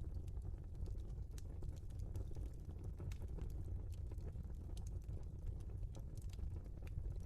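Log fire burning in a fireplace: irregular sharp crackles and pops over a steady low rumble.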